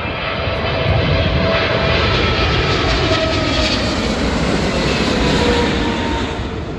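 Jet airliner passing low overhead: a loud engine roar with whining tones that slide slowly down in pitch, easing off near the end.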